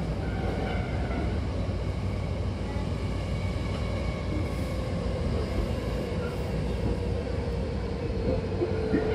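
Hankyu commuter train running, heard from inside the car: steady rumble of wheels on rails and car body. A faint tone slowly falls in pitch through the second half.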